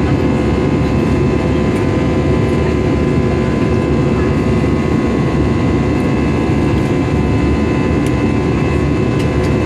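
Steady cabin noise of an Airbus A320-214 in the climb, heard from an economy seat: a dense low rush of its CFM56 engines and airflow, with a faint steady whine running through it.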